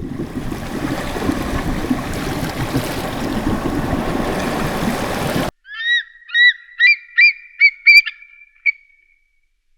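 A rough rushing noise for about five and a half seconds cuts off abruptly. A goose then honks about seven times in quick succession, the honks coming closer together.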